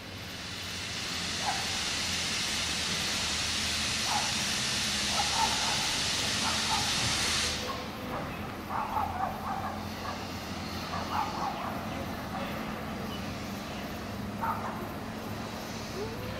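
Steam locomotive letting off a loud, steady hiss of steam, which cuts off sharply about seven and a half seconds in.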